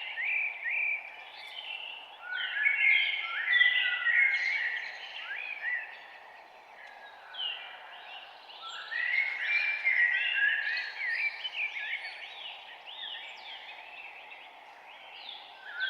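Many songbirds chirping and singing at once in a dense morning chorus over a steady background hiss, busiest in two spells about three and ten seconds in.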